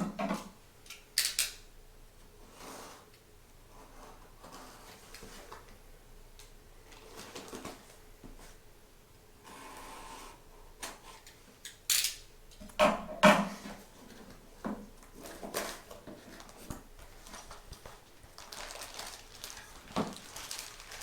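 A cardboard box being opened and its packaging and bagged Lego parts handled: scattered knocks and clicks, the loudest cluster a little past halfway, with rustling in between and toward the end.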